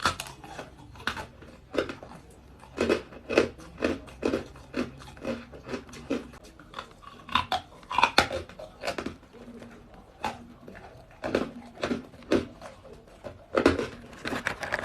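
Hard ice cubes being bitten and crunched between the teeth close to the microphone, a run of sharp crackling crunches in bursts of chewing with short pauses between.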